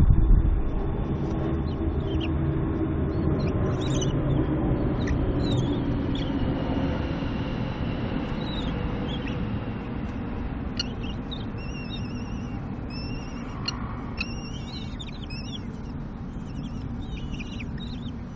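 Short high bird calls, repeated in quick runs, over a steady low rumble that slowly fades.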